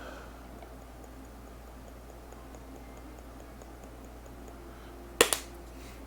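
Kitchen utensils being handled while allspice is measured. There is faint, quick ticking, about four ticks a second, over a low steady hum, then a sharp double clack about five seconds in.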